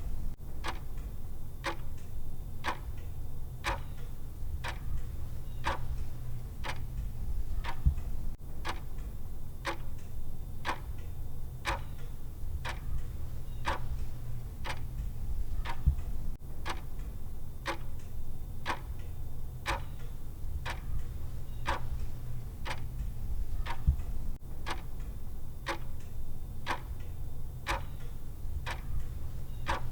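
Clock-style ticking of a countdown timer: an even run of sharp ticks, a little faster than one a second, over a steady low hum. A slightly louder thump comes about every eight seconds.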